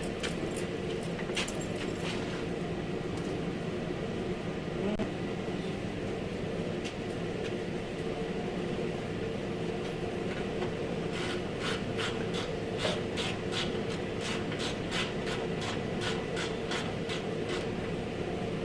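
A steady mechanical hum runs throughout. From a little past the middle comes a quick run of sharp clicks or taps, about two to three a second, with a few scattered clicks near the start.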